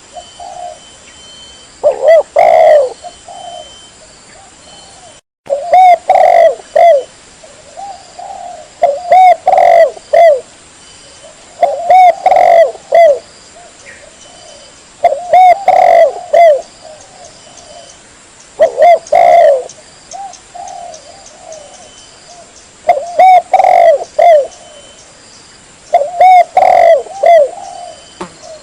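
Spotted dove (tekukur) cooing loud and clear, a lure call. It repeats its short phrase of several coos about every three to four seconds, with softer coos in between.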